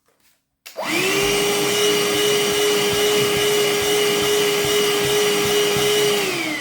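Parkside PHSSA 20 Li C1 20 V cordless handheld vacuum cleaner switched on, its motor spinning up in a fraction of a second to a steady tone over rushing air. Near the end it is switched off and the motor winds down, its pitch falling.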